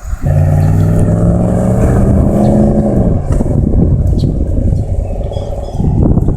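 A motor vehicle passing close by on the road, its engine note rising slightly and then dropping in pitch as it goes past, trailing off into a rough rumble.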